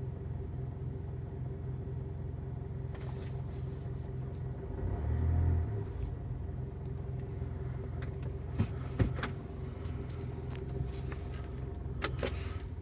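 Mitsubishi Pajero 3.2 DI-D four-cylinder diesel engine running steadily, heard from inside the cabin, briefly louder about five seconds in, with a few sharp clicks later on. The owner is unsure whether this noise is engine knock.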